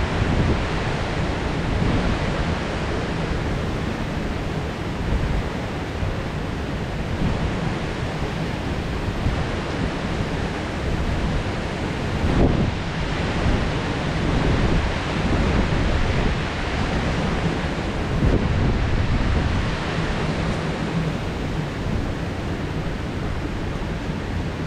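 Heavy rain pouring steadily in a dense hiss, with a low rumble beneath that swells briefly about halfway through and again later on.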